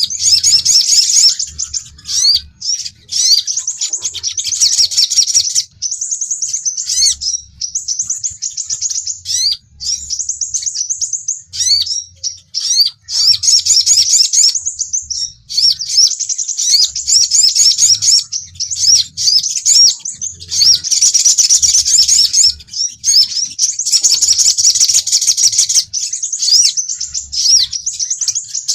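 Sogon and sepah raja sunbirds (crimson sunbird) singing a rapid, high-pitched twittering song with quick rising sweeps, nearly continuous with brief pauses. This is a lure and call recording of a fighting-form ('tarung') bird used to draw in and provoke others of its kind.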